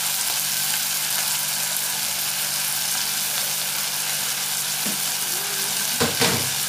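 Chunks of meat and onions frying in a saucepan, a steady sizzle. A short clatter about six seconds in.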